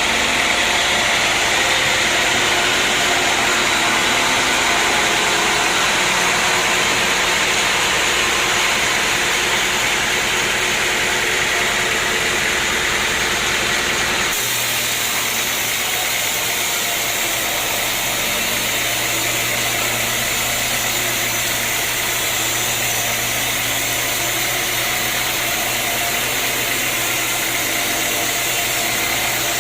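Sawmill machinery running steadily, a continuous mechanical hum and hiss with no distinct cutting strokes; the sound changes abruptly about halfway through, to a stronger low hum and more high hiss.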